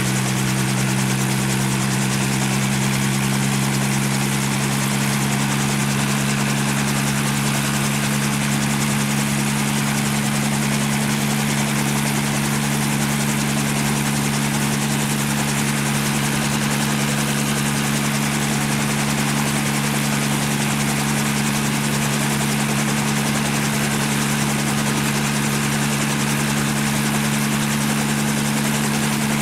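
Helicopter running steadily, a constant low drone with a steady hum and no change in pitch or level.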